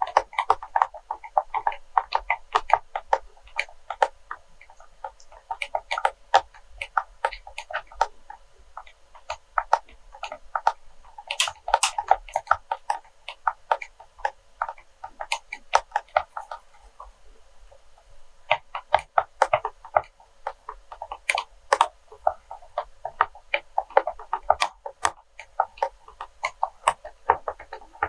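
Fingernails tapping and scratching on wax melts: quick, irregular clicks in clusters, thinning out briefly a couple of times.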